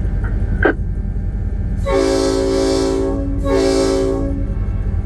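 Diesel locomotive air horn sounding twice, about two seconds in: a blast of over a second, then a shorter one, over a steady low rumble.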